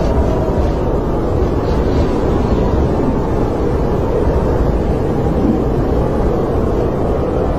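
Snowstorm wind blowing steadily, a dense low rushing noise with a faint wavering whistle over it.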